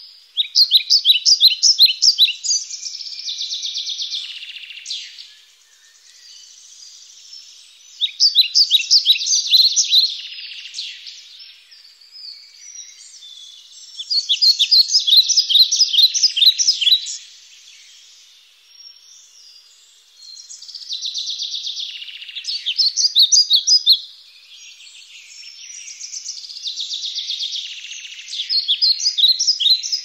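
A songbird singing: a rapid, high-pitched chirping phrase lasting two to three seconds, repeated about every six seconds, with quieter chirps between phrases.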